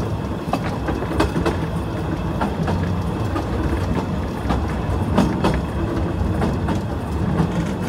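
Narrow-gauge train running behind the Bagnall 0-4-2T steam locomotive Gelert, heard from the leading carriage: a steady rumble of wheels on track with frequent irregular clicks and knocks.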